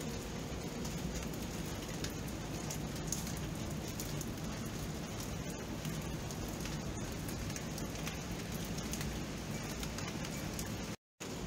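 Rain falling steadily: a constant hiss with many individual drops ticking. The sound cuts out for a split second near the end.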